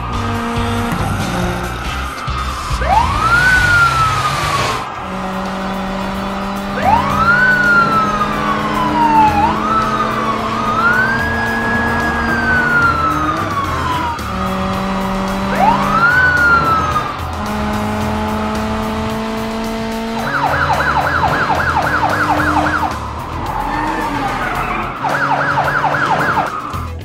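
Cartoon police siren sound effects over background music: several whooping sweeps that rise quickly and fall slowly, then a fast warbling yelp that comes twice near the end.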